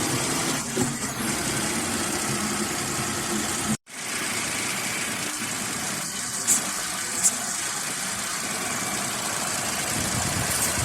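Car engine idling steadily after being jump-started on a weak battery. The sound cuts out abruptly for an instant about four seconds in, and two short clicks come a little past the middle.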